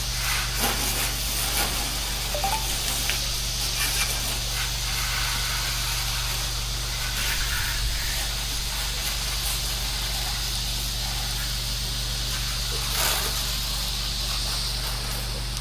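Pressure-washing equipment running steadily with a low engine hum, under the continuous hiss of water spraying.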